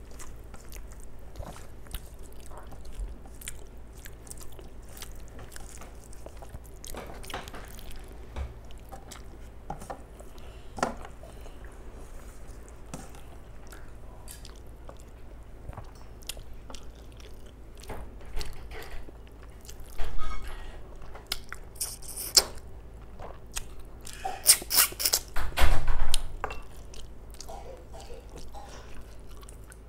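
Close-up chewing and wet mouth sounds of a person eating rice and curry by hand, with the squelch of fingers mixing rice on the plate. Many small clicks and smacks throughout, with a few louder bursts about two-thirds of the way in.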